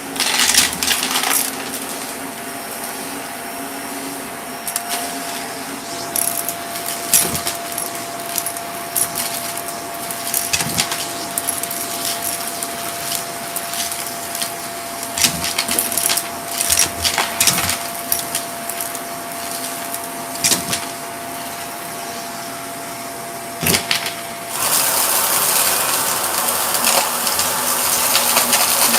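Purple Shark vacuum cleaner running with a steady hum and a thin whine, with many sharp clicks and rattles along the way. About 24 seconds in, the rushing of the suction grows louder and brighter.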